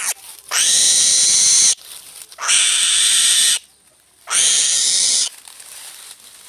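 Harsh, hissing calls from a bird of prey: four long rasping bursts, each about a second long, coming about every two seconds.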